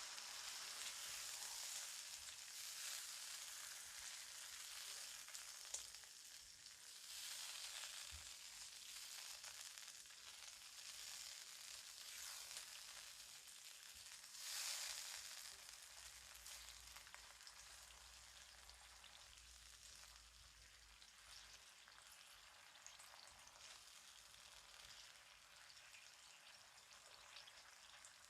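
Chicken sizzling in a frying pan, a steady hiss that swells twice and slowly dies down.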